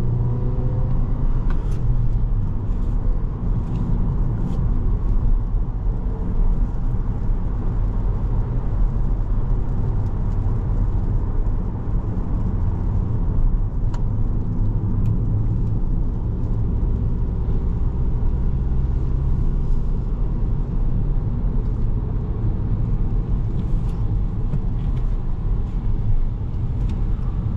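Steady low engine and road rumble heard from inside the cabin of a 2017 Volkswagen Jetta SE with a five-speed manual gearbox while it is driven along.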